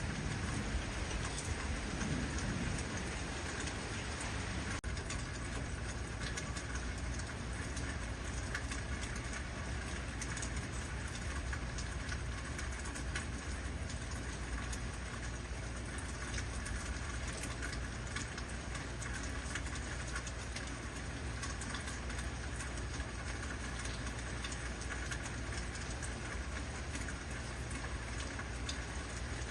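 Heavy rain falling steadily: a dense patter of drops over a low, steady rumble. The rumble is a little stronger in the first few seconds.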